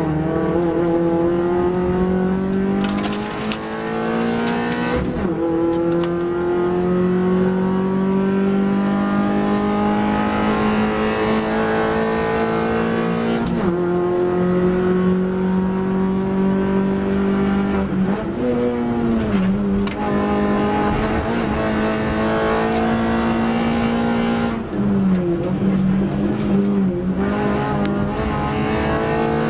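Mini Cooper race car's four-cylinder engine heard from inside the cockpit, climbing in pitch through the gears with a sharp drop at each upshift. Near the end it falls and wobbles through downshifts under braking.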